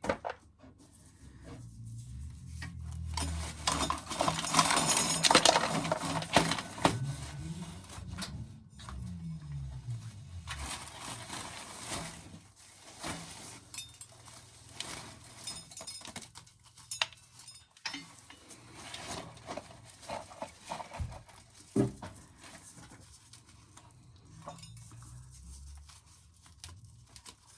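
Dry corn kernels clicking and clinking into a metal coffee can. A car engine revs about 3 to 10 seconds in, its pitch rising and then falling away.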